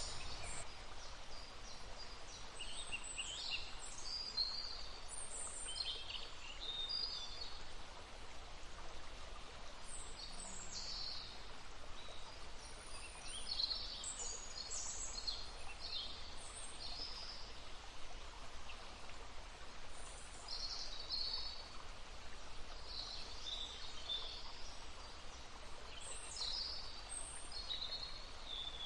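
Songbirds chirping and trilling in short high phrases, over the steady babble of a stream.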